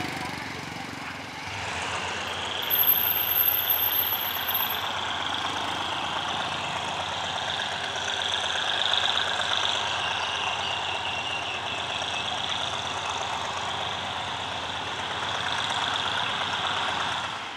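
A train running past at a station: a steady rolling rush of wheels on rails, with a thin high squeal for a couple of seconds early on. The rush runs for about fifteen seconds and drops away sharply near the end.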